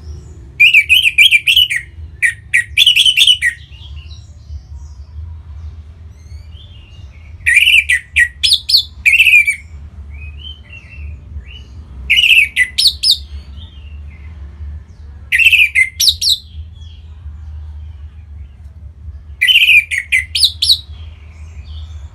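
Orange-headed thrush singing: five short, loud bursts of rapid notes a few seconds apart, over a steady low hum.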